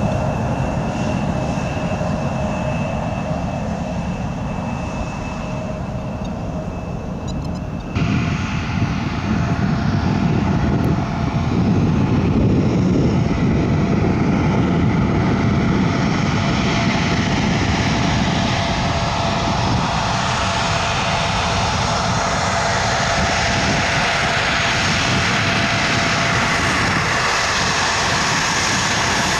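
Airliner engines running, with a steady whine over the noise. About eight seconds in the sound cuts abruptly to a louder aircraft, whose engine noise swells and stays strong.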